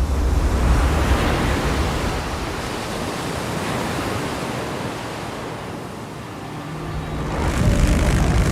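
Low motorcycle engine rumble under rushing wind noise, loudest near the start and again from about seven seconds in.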